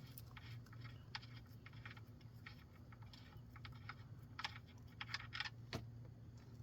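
Faint, irregular small clicks and taps over a low steady hum, with a cluster of clicks about two-thirds of the way through.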